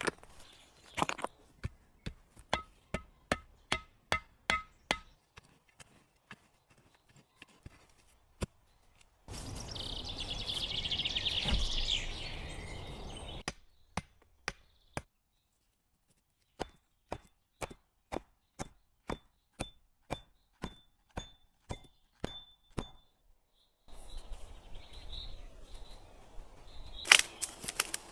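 Rapid chopping strikes, evenly spaced at about two or three a second, in several short runs separated by abrupt breaks. A few seconds of steady hiss sits between the runs midway.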